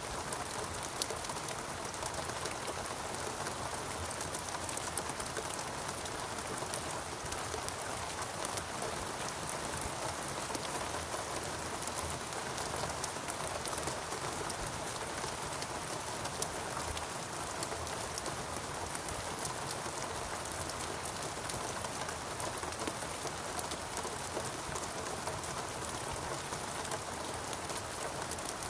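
Steady heavy rain falling on foliage in a rainforest, a dense even hiss with countless fine drop patters.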